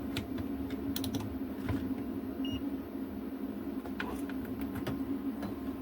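Scattered small clicks and taps of handling work on a bench, over a steady low hum.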